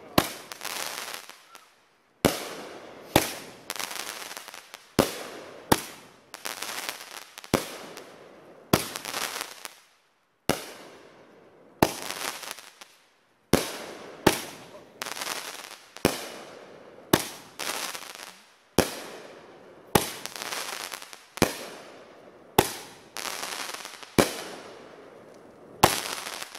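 Aerial fireworks bursting one after another in the night sky: about twenty sharp bangs, roughly one a second with a few brief pauses, each followed by a fading crackle as the stars burn out.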